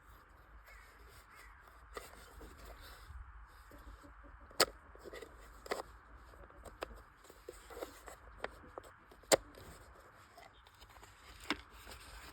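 Scattered sharp clicks and taps of a plastic screwdriver bit case and its bits being handled, a few seconds apart, with the loudest two about four and a half and nine seconds in, over a faint steady background hiss.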